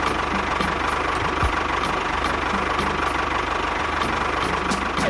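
A small motor running steadily at a constant speed with a fast, even low chug.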